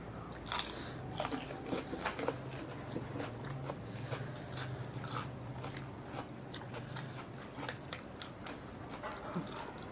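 Close-up chewing of raw cucumber: crisp crunches and small mouth clicks scattered through the eating, over a faint low hum.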